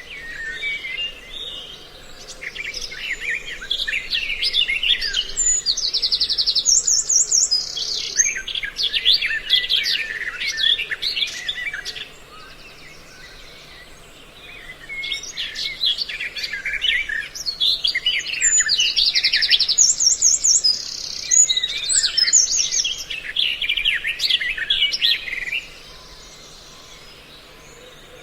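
A recorded mix of songbird calls used as a trapping lure: dense chattering chirps with a fast high trill in each bout. Two bouts of calling are separated by a quieter gap about twelve seconds in, and the calling drops off again near the end, as if the recording repeats.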